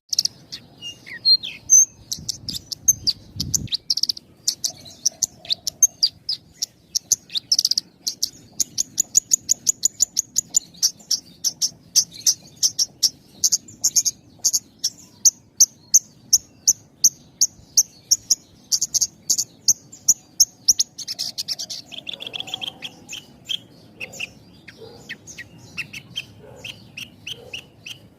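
Javan bushlark (branjangan) singing a fast string of short, high chirps with almost no pause between phrases, about three notes a second. A little after twenty seconds the song shifts to lower notes.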